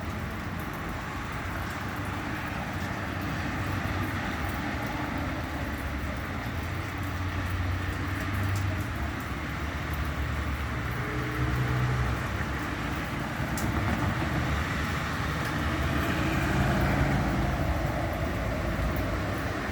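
Motor vehicles running in the street, a low engine hum that swells a few times over a steady hiss of road noise.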